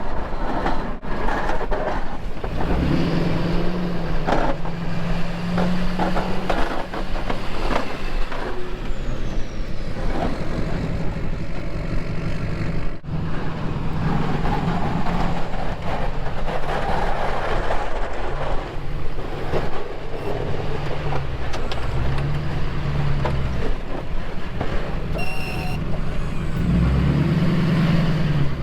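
Snowplow truck's engine, heard from inside the cab, revving up and easing off again and again as the truck pushes snow, with scattered knocks and clunks. A short high beep sounds near the end.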